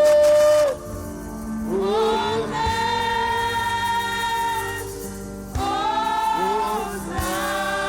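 Gospel worship music: voices sing long, held notes over instrumental backing, with brief breaks between phrases.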